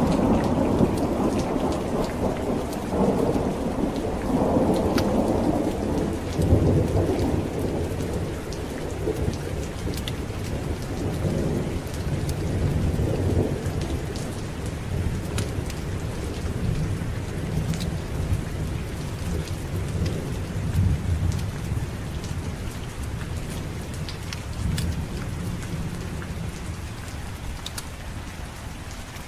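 Thunderstorm: steady rain with a long rolling rumble of thunder that is heaviest at the start and slowly dies away, with scattered sharp ticks over the rain.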